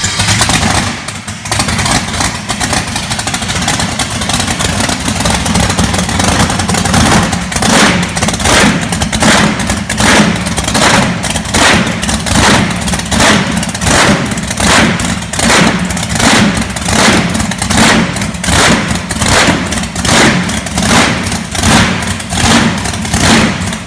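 Monster truck's 540-cubic-inch methanol-burning V8 drag engine running loud just after starting. From about seven seconds in it surges in an even rhythm, a little more than once a second.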